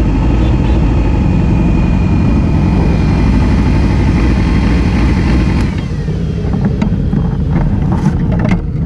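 Supersport motorcycle engine running steadily at low speed as the bike rolls along. It quietens about two-thirds of the way through, and a few sharp clicks or knocks follow near the end.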